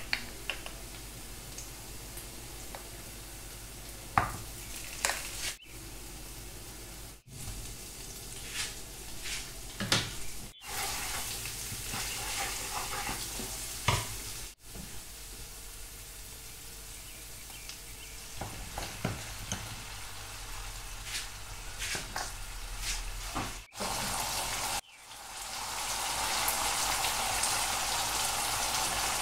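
Thai curry paste frying in oil in a nonstick frying pan: a steady sizzle, with a wooden spoon stirring and knocking against the pan now and then, broken by several brief gaps. Near the end the sizzle turns louder and fuller as coconut milk goes into the hot pan.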